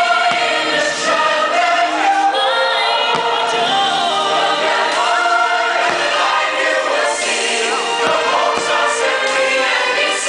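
Fireworks show soundtrack: a full choir singing sustained notes with orchestra. Several short firework bursts go off underneath.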